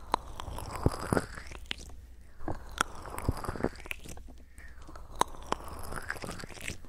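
Close-miked ASMR trigger sounds: irregular sharp, moist clicks and handling rustles right at the microphone, over a steady low hum.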